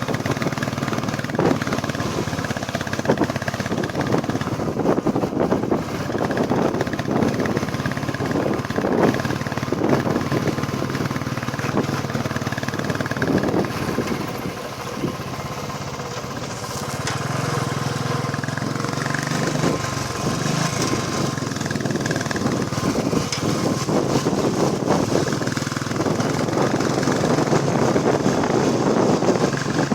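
Royal Enfield Classic 350's single-cylinder engine running while the motorcycle is ridden, with the engine noise dropping briefly about halfway through.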